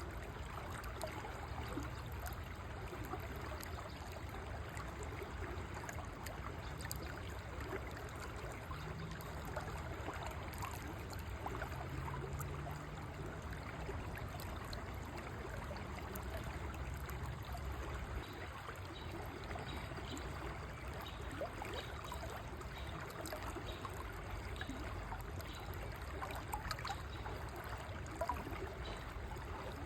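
A river flowing steadily, its water babbling and trickling over stones in a continuous, even rush.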